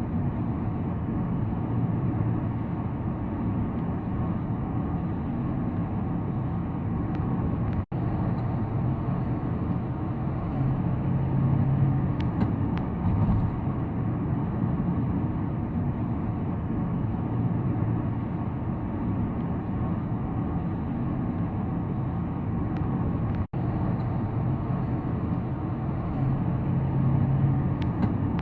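Steady road and engine noise of a car driving along a highway. The sound cuts out for an instant twice.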